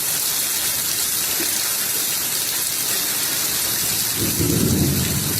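Steady hiss of falling water, with a louder low rumble about four seconds in that lasts about a second.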